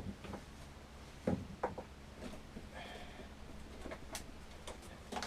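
A few light clicks and knocks of hands handling a lawnmower's rubber fuel pipe and its spring clips, over a low steady hum.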